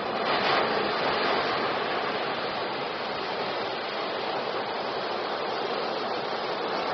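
Steady rushing water: a continuous, even hiss with no separate splashes or breaks.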